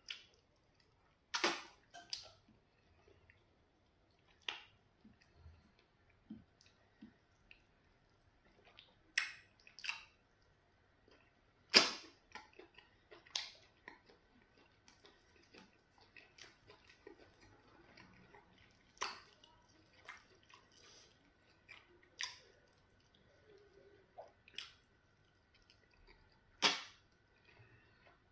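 Close-up eating sounds: wet lip smacks and chewing of pounded yam fufu with okra soup, eaten by hand, heard as about a dozen irregular sharp smacks a second or more apart, the loudest about twelve seconds in.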